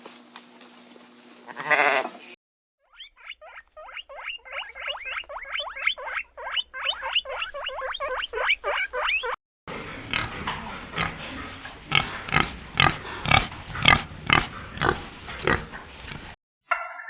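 Farm animals calling in several short clips, one after another. A loud call comes just before 2 s, then a few seconds of rapid, evenly repeated short calls, then a louder, denser run of calls.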